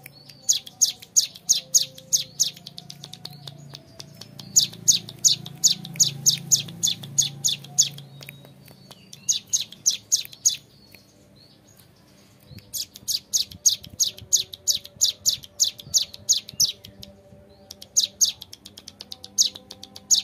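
Hill prinia (ciblek gunung) singing its 'ngebren' song: long rapid trills of sharp, clear high notes, about six a second, in five bursts separated by short pauses.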